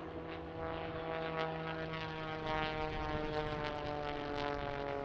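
Propeller-driven aircraft engine droning as it flies past, a steady tone with several overtones that slowly falls in pitch over the last few seconds.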